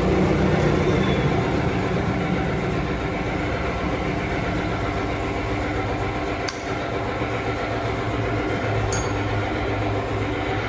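Honda CB150 motorcycle's 150 cc engine running steadily, freshly tuned, with one sharp click about two-thirds of the way through.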